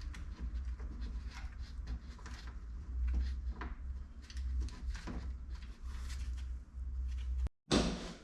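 Irregular clicks and knocks of hands working parts and fasteners on a car door, over a low steady hum. The sound cuts out briefly near the end and comes back with a short, louder clatter.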